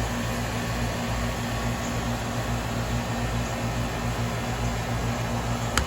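2002 Payne teardrop 3-ton heat pump running steadily in cooling mode: the low, even hum of its Bristol H29B reciprocating compressor under the rush of air from the condenser fan.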